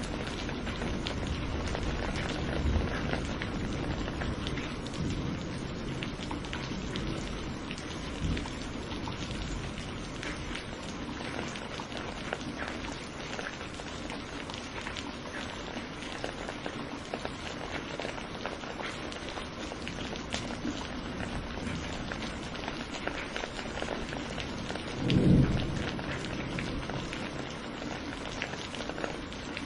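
Steady rain falling, with fine drop ticks scattered through it. A short, low rumble of thunder comes near the end.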